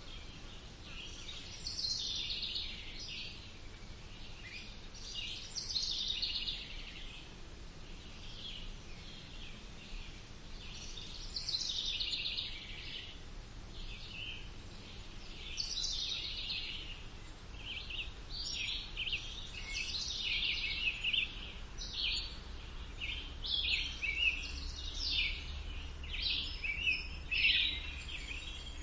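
Songbirds singing and chirping in woodland: short high-pitched phrases every few seconds at first, coming thicker and louder in the second half, over a faint steady background hum.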